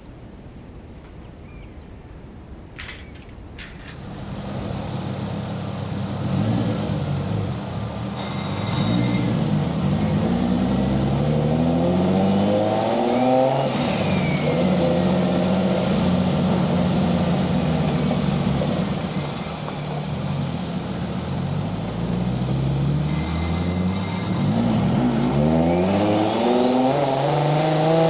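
Nissan 240SX's swapped Toyota 1JZ VVT-i 2.5-litre inline-six with a single turbo. It runs quietly at first, with a few sharp clicks about three seconds in. From about four seconds in it pulls hard through the gears, its pitch climbing and dropping back with each shift, and a high rising whine near the end.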